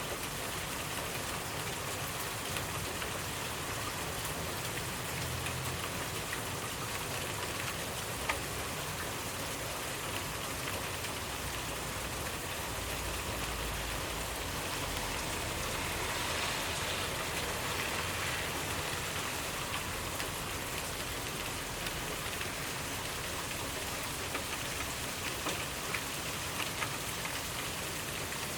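Steady rainfall with drops pattering on surfaces, an even hiss with scattered individual drop ticks, swelling slightly about two-thirds of the way through.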